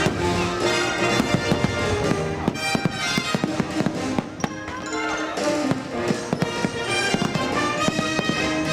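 Orchestral fireworks-show music playing, with fireworks bursting over it in many sharp pops and bangs, clustered densely through much of the stretch.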